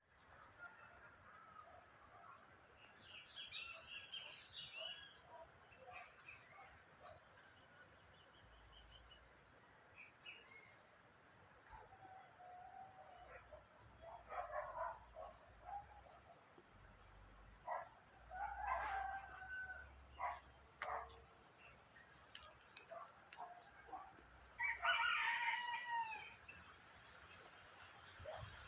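Roosters crowing several times, the loudest crow near the end, with small birds chirping over a steady high-pitched whine.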